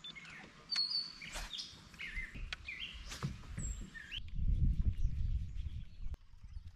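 Songbirds singing: a run of short, quick chirping calls for the first four seconds. Then an abrupt change to a low rumbling noise, with the birds only faint.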